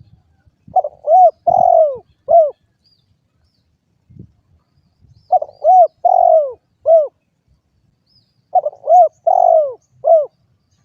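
Spotted dove (derkuku) cooing: three phrases of four low coos each, the third coo of each phrase the longest.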